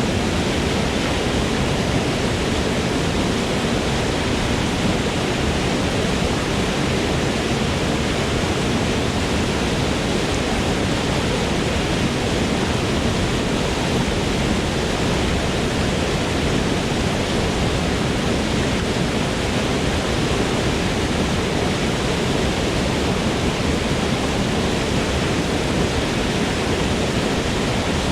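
Waterfall in a forest: a steady, even rush of falling water with no breaks or changes.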